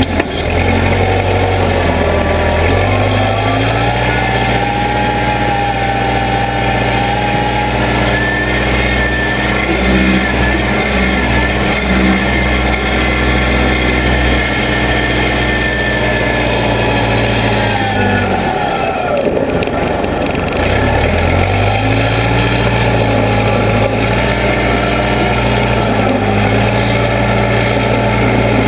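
Case 580B backhoe's engine running at working revs. It speeds up a couple of seconds in, falls to a low dip about two-thirds of the way through, then revs back up, with a thin whine that rises and falls with the engine.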